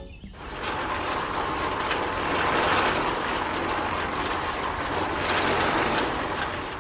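Small electric motor of a miniature model concrete mixer switched on, starting about half a second in and turning the drum through plastic gears with a steady whir and fast gear rattle.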